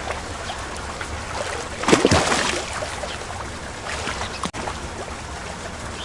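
Penguin sound recording: a steady rushing noise like water or wind, with one louder, short cry that falls in pitch about two seconds in.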